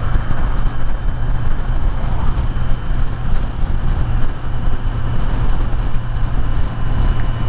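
Kawasaki Z900's inline-four engine running steadily at cruising speed, a constant low drone mixed with the rush of wind and road noise.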